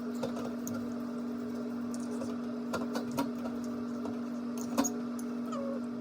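A small electric motor running with a steady hum, with a few light clicks over it.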